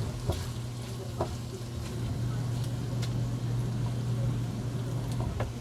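A steady low hum under light sizzling from a pan of chicken liver and tofu, with a few clicks of a utensil against the pan as it is stirred.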